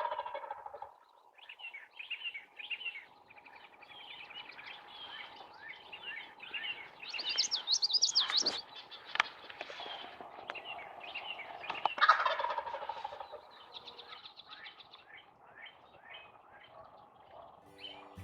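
Wild turkey gobbler gobbling twice, a loud rattling gobble at the start and another about twelve seconds in. Small birds chirp and sing throughout.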